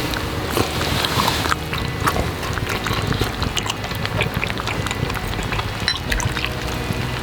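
Hot-pot broth sloshing and dripping, with scattered small clicks of utensils, over low wind noise.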